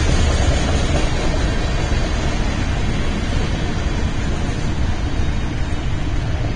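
BNSF freight train rolling past: a steady low rumble with the rushing noise of steel wheels on the rails.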